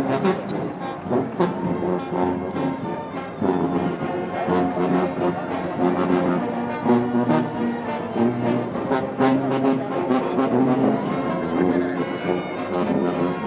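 Brass band music: held brass notes over a steady drum beat.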